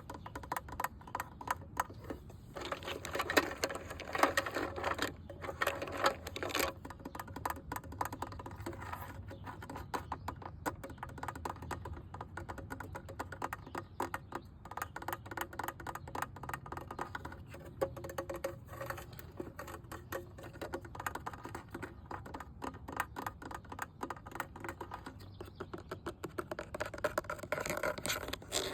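Rapid, continuous tapping and scratching on a hard object, many light taps a second, louder between about three and seven seconds in.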